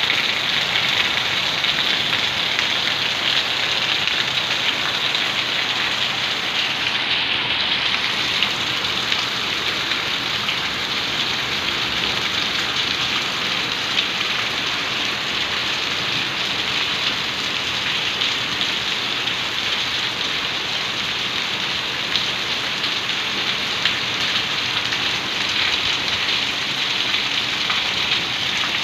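Heavy rain falling steadily, a dense even hiss of drops splashing on wet concrete.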